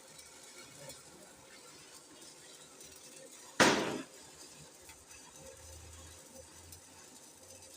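A single sharp bang, like one hard blow, about three and a half seconds in, over quiet background.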